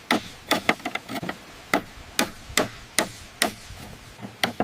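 Mallet blows hammering a bamboo pole joint tight, repeated sharp knocks about two to three a second, some coming in quick pairs.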